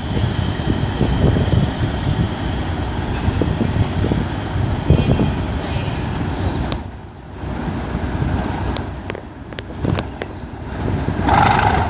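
Class 37 diesel locomotive's English Electric V12 engine running at the platform before it pulls away, a steady rumble with a haze of station noise that dips twice and swells again near the end.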